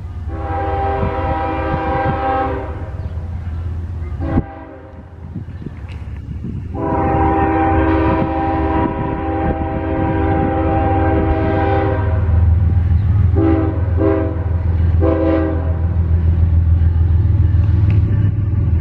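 Train horn sounding a multi-note chord in several blasts: a long one, a short one, a long one of about five seconds, then three short blasts. Under it a locomotive's heavy low rumble grows louder as the train comes close.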